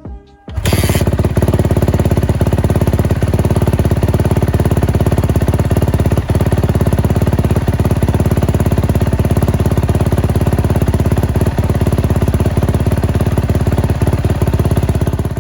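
Rebuilt Yamaha YZ250F single-cylinder four-stroke engine running steadily with a rapid, even firing beat. It cuts in suddenly about half a second in and cuts off at the end.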